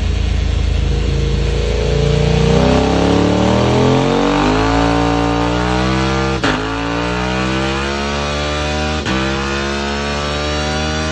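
KTM 890 Duke R's parallel-twin engine, breathing through a full Akrapovic exhaust with the dB killer fitted, pulling hard under load on a dynamometer, its revs climbing steadily. Two brief sharp cuts break the rise, one about halfway through and one near the end.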